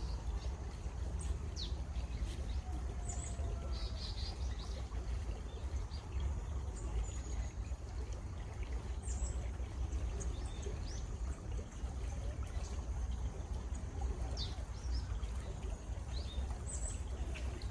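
Running water from a stream, a steady rushing with a low rumble, while small birds chirp in short, scattered calls throughout.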